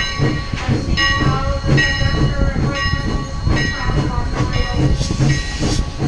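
Steam train's vintage passenger coach rolling slowly along the track: a rhythmic run of metallic squeaks and knocks from the carriage and running gear, repeating about every half second.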